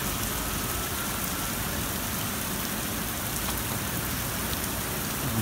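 Rain pouring down steadily in a thunderstorm downpour, an even hiss of rain falling on surfaces.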